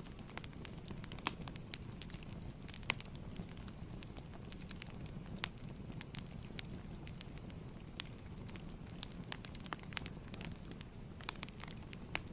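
Fire crackling in a fireplace: a steady low rumble of flames with sharp pops and snaps at irregular intervals.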